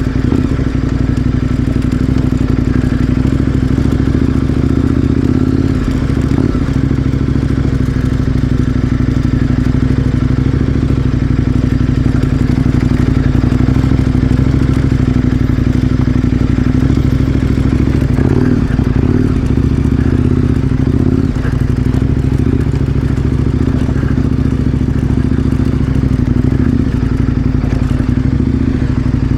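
KTM 1090 Adventure R's V-twin engine running at a low, steady speed while riding a dirt trail. A few clattering knocks from the bike around the middle and later on.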